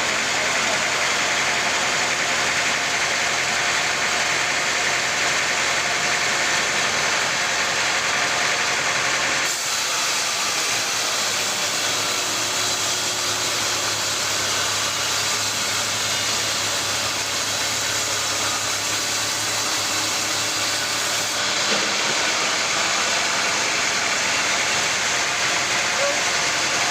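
Steady mechanical noise of sawmill machinery running, a motor-driven hum with hiss. The sound changes abruptly about nine seconds in and again about 21 seconds in.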